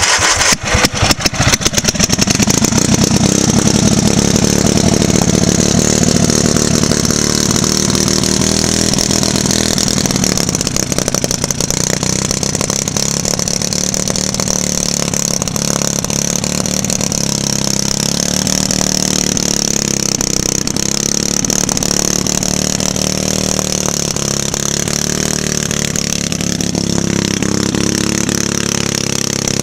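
Engine of a 1970s Generac generator, run with its oil drained, sputtering unevenly as it catches and then running steadily at speed with slight wavering.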